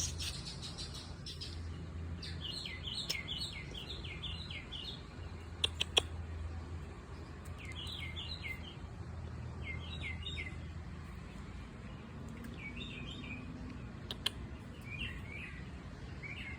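Small birds chirping in short bursts of quick repeated notes, a burst every two or three seconds. A few sharp clicks and a low hum sit underneath.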